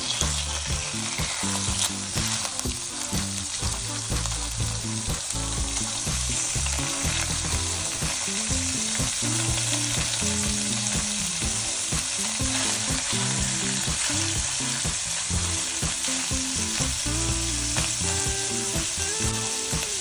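Salmon fillets sizzling steadily as they fry in coconut oil in a frying pan.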